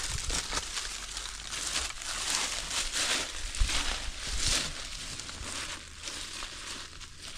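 Irregular rustling and crunching, a run of short crackly strokes, a little louder in the middle and easing off toward the end.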